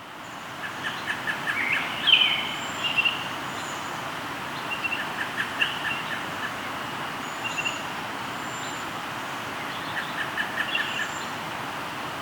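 Steady rush of a flowing river, fading in at the start, with several birds singing over it: runs of short repeated chirps and trills, and thin high whistles now and then.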